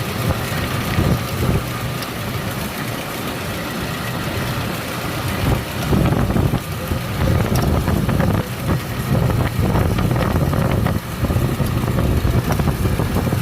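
1996 Chevy S10's engine idling with the AC on, heard close up in the engine bay near the AC compressor, with a light clicking over the engine noise. The clicking is the noise that comes on only while the AC runs.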